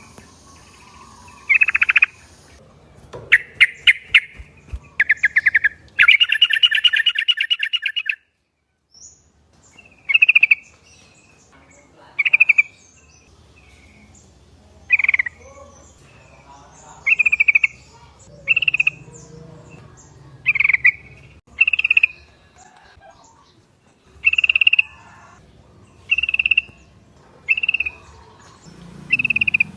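Yellow-vented bulbuls (trucuk) calling. The first several seconds hold a burst of fast chattering trills; after a short break come short bubbly calls, repeated about every one to two seconds.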